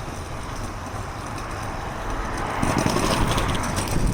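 Outdoor road noise of passing traffic, a steady rumble and hiss that swells louder about two and a half seconds in.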